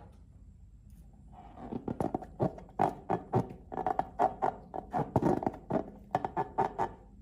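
Slime being squished and pressed by hand, a quick irregular run of sharp pops and clicks starting about a second and a half in.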